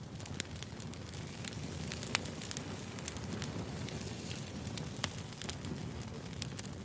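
Firewood burning and crackling: a steady low rushing with frequent sharp pops, the loudest about two and five seconds in.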